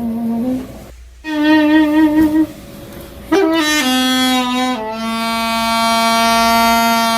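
Background music: a solo wind instrument plays a slow melody in long, held notes with vibrato, pausing briefly between phrases.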